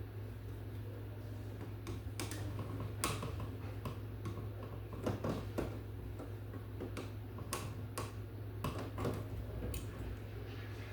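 Scattered light clicks and taps at uneven spacing, such as hand tools and small hardware being handled during receptacle work, over a steady low hum.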